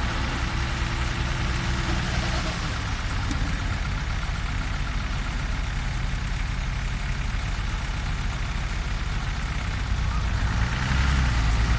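Diesel engine of a six-wheel dump truck idling with a steady low rumble; a faint whine above it drops out about two seconds in, and the engine grows a little louder near the end.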